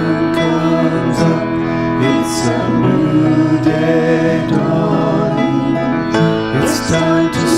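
A hymn sung by voices with keyboard accompaniment, sustained chords under the melody.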